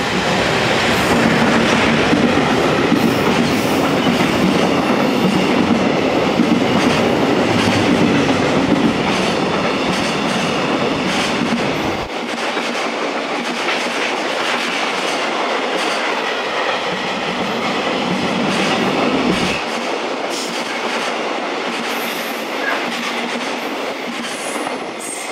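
A JR Freight EF210 electric locomotive and its long string of container wagons running through a station at speed: a continuous rumble with repeated wheel clicks over the rail joints. It is loudest in the first several seconds as the locomotive goes by, then steadier as the wagons follow.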